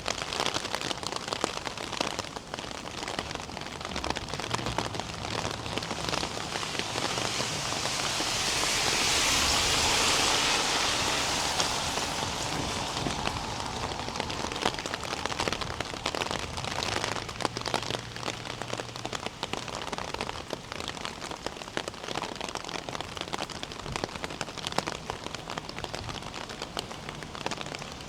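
Steady rain falling, with many small drops pattering and crackling on hard surfaces. About a third of the way in, a louder hissing rush swells up and fades away over a few seconds.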